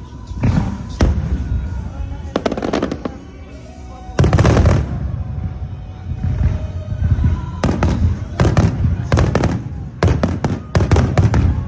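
Aerial fireworks shells bursting one after another, each bang followed by a rolling echo, with a big loud burst about four seconds in and a rapid string of bangs near the end.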